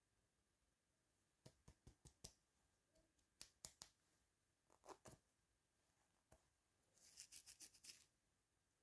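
Faint handling sounds of small toy pieces during an unboxing: scattered light clicks and taps, then a quick run of about eight clicks near the end.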